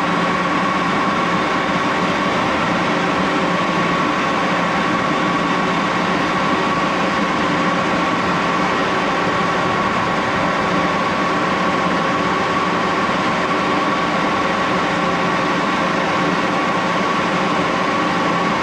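Axelson engine lathe running at full spindle speed, about 1127 rpm, during a turning cut on aluminum stock with a carbide cutter: a steady machine hum with several held tones, the highest and clearest a whine near 1 kHz.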